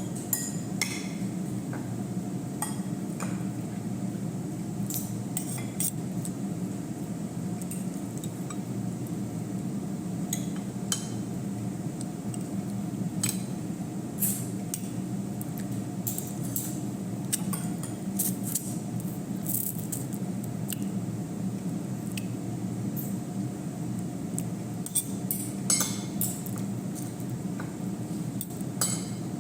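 Spoon and utensils clinking and tapping against a bowl and dish during a meal, in scattered light clicks, over a steady low hum.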